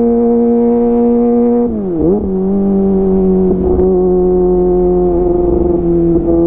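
Kawasaki ZX-25R's inline-four engine running through a DX Generation GPR full-system aftermarket exhaust while riding at steady revs. About two seconds in the pitch dips sharply and recovers to a lower steady note, which then holds.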